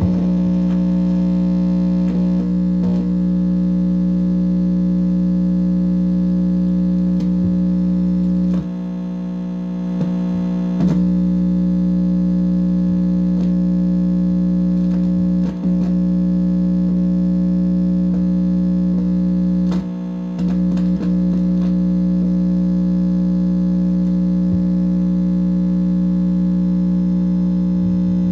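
Steady, loud electronic buzz made of several fixed tones, coming through an amplifier's speaker, with scattered clicks and two brief drops in level, at about 9 and 20 seconds in.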